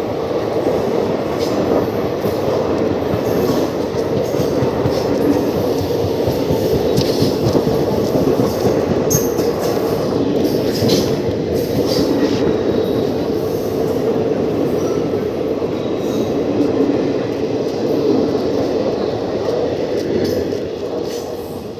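A train rolling past close by: a steady, loud rumble of steel wheels on rail with a rapid run of clicks as the wheels cross rail joints, dying away right at the end.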